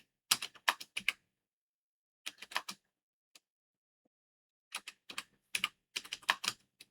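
Computer keyboard typing in short bursts of quick keystrokes, with pauses of about a second between bursts and a longer run of keys near the end.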